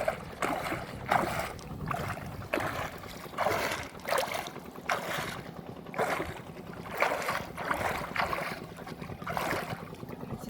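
Water splashing and sloshing in repeated strokes about once a second, over a faint steady low hum.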